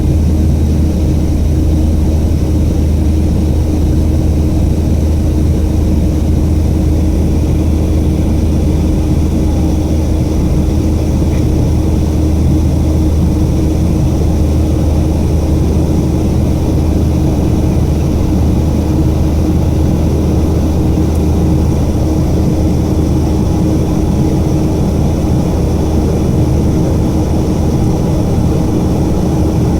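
Boeing 737-500 airliner's CFM56 jet engines and airflow heard as a steady, unchanging drone, with a deep hum and a held tone, as heard inside the cabin.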